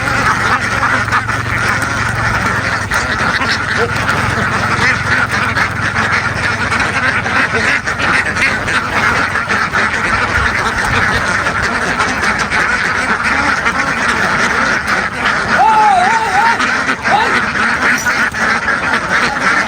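A large flock of domestic ducks quacking together without pause, many overlapping calls.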